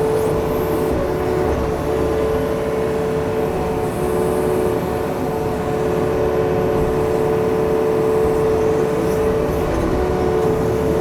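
Yanmar machine's diesel engine running steadily, with a steady whine over a low rumble.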